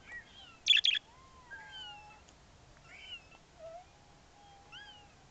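Pet birds whistling and calling: a string of rising-and-falling whistles, with a short, sharp, loud double squawk just under a second in.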